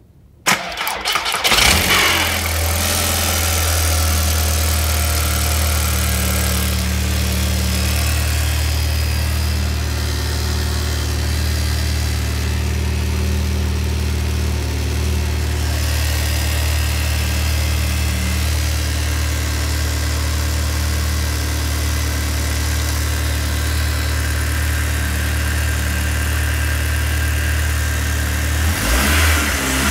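Audi A3 1.8T's turbocharged four-cylinder engine cranks and starts about half a second in, then settles into a steady idle. The engine note shifts briefly near the end. The start-up is free of the strange noise the owner was chasing.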